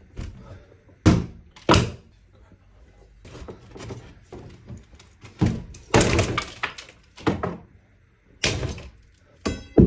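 Irregular heavy thuds and knocks from demolition strip-out work, with a quick run of clattering impacts about six seconds in.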